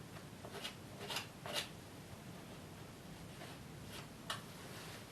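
Oil-paint brush dragged across the canvas in a few short strokes: three close together in the first two seconds and one more about four seconds in.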